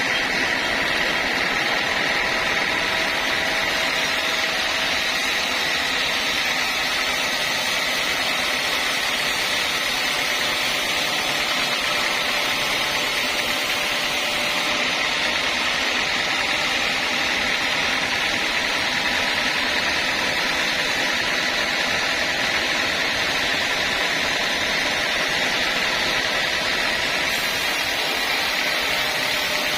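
Sawmill machinery running steadily, a continuous mechanical noise with no break or change.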